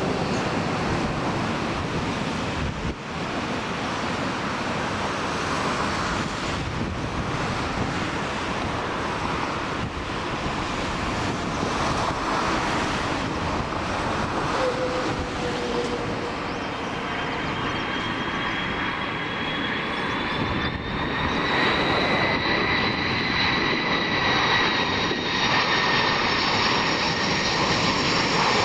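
Jet engines of a KC-10 Extender tanker, its three General Electric CF6 turbofans, running on approach: a steady rush of engine noise, with a high turbofan whine coming in about halfway through and growing as the aircraft draws nearer.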